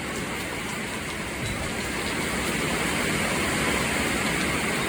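Heavy rain driven by wind: a steady rushing hiss that grows slightly louder.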